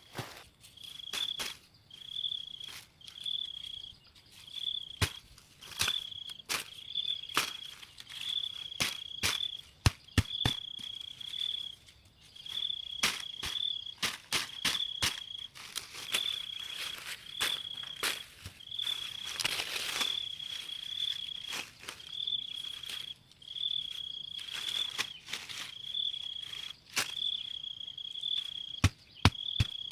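An insect chirping on one steady high pitch in short bursts, about once a second, with irregular sharp clicks and snaps over it.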